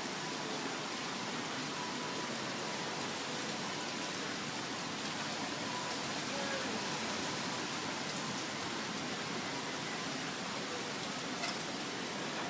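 Heavy tropical downpour falling steadily, a continuous hiss of rain on surfaces, with a single sharp click near the end.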